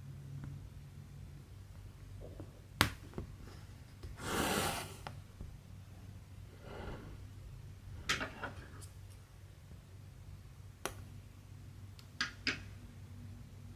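Cross stitching handling sounds: several sharp clicks of the needle pushing through the stiff Aida cloth, and a longer rasping swish about four seconds in as the thread is drawn through, over a low steady hum.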